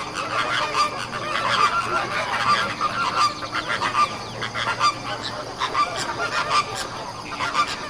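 A flock of birds calling, many short calls overlapping at once in a continuous chorus.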